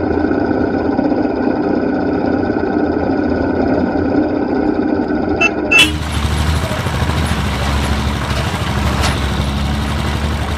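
Vehicle engines running steadily on a mountain road, with two brief high toots about five and a half seconds in. After the toots the engine sound changes character.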